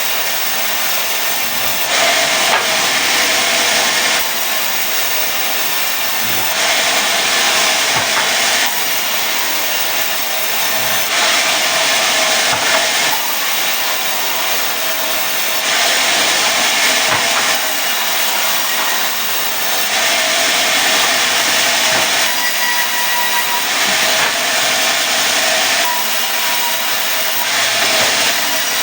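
Sawmill saw running steadily through mahogany as it cuts planks: a continuous loud sawing hiss with a faint steady machine hum underneath, the high sawing noise swelling and easing every few seconds.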